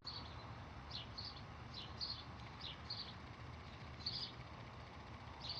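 Faint background bird chirping: short high chirps repeated irregularly, a couple each second, over low steady room noise.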